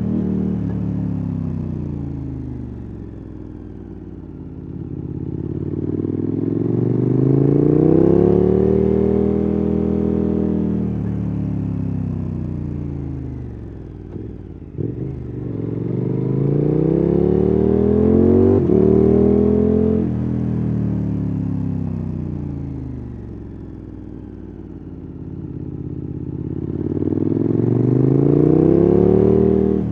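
KTM 1290 Super Adventure S's V-twin engine on the move, its revs rising under throttle and falling off again about three times in a slow swell, as when accelerating out of and rolling off into slow corners. Two short knocks come near the middle.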